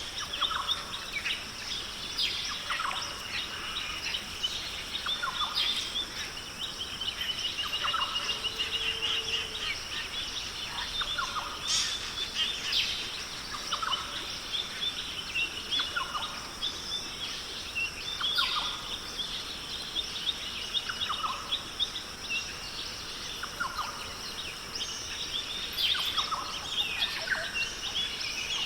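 Forest ambience: many birds giving short repeated calls, one with a fast trill, over a steady high insect drone.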